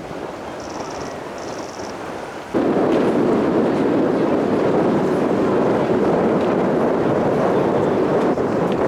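Steady jet roar of the Frecce Tricolori's Aermacchi MB-339 aircraft, cutting in suddenly and loudly about two and a half seconds in and holding steady.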